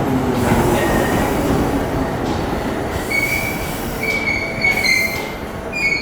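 Electric commuter train pulling into the platform and slowing: a heavy running rumble with a low hum falling in pitch, then a high brake and wheel squeal from about three seconds in as it comes to a stop.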